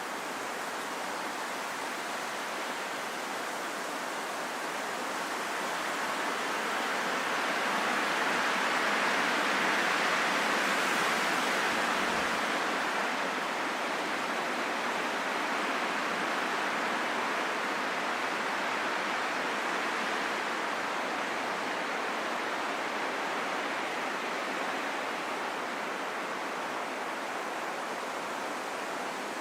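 Wind rushing steadily, swelling into a gentle gust about ten seconds in, then easing back.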